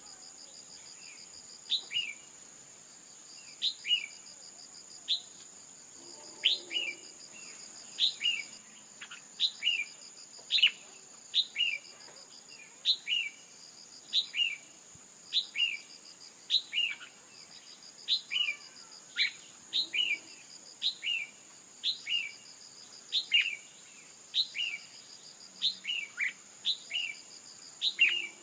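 Female red-whiskered bulbul calling: short, sharp, falling chirps repeated roughly once a second. A steady, high insect drone runs behind.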